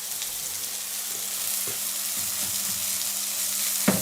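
Vegan burger patties sizzling in oil in a frying pan, a steady hiss, with two short knocks near the end.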